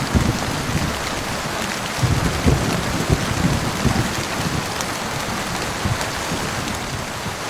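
Thunderstorm: steady rain hissing, with irregular low rumbles of thunder underneath.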